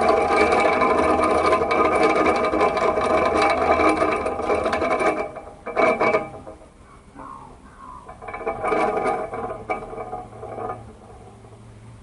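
Electric fan running with a steady mechanical rattle that cuts off about five seconds in. It starts briefly twice more, then only a low hum is left.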